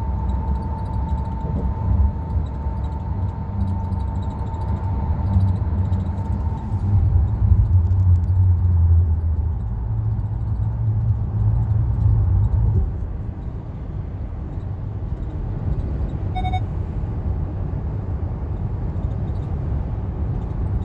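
Cabin noise inside a Hyundai Palisade on the move: a steady low road rumble that swells in the middle, with faint scattered clicks and rattles in the first several seconds, taken for the seat's rattle. A short beep comes about sixteen seconds in.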